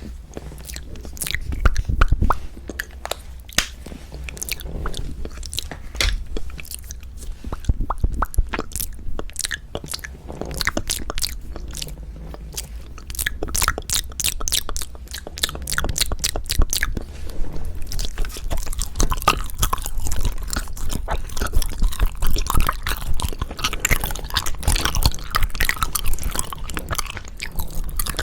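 Close-up chewing of hwagwaja (Japanese-style sweets): a continuous stream of short mouth clicks, coming very fast for a few seconds around the middle.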